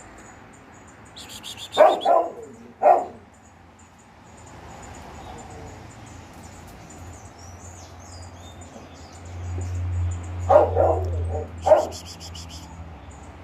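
A dog barking in two short bouts, a couple of barks about two seconds in and a few more near the end. Small birds chirp and trill in the background throughout.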